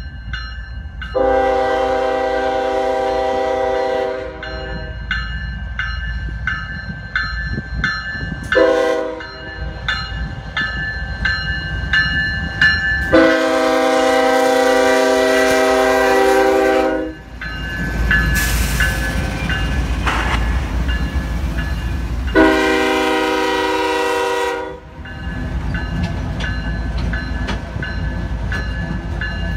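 Norfolk Southern diesel locomotive horn sounding four blasts (long, short, long, long) over the low rumble of the train. A grade-crossing bell rings steadily underneath at about two strikes a second.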